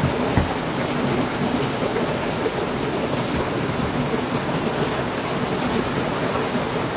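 Heavy rain falling steadily, with one short low thump about half a second in.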